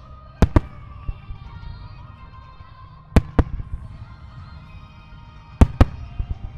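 Aerial firework shells bursting in three double bangs about two and a half seconds apart, over a low rumble, with music playing underneath.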